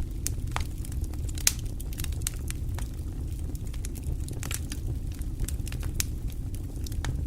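Wood fire crackling and popping, with irregular sharp snaps over a steady low rumble of the flames; one pop about one and a half seconds in is the loudest.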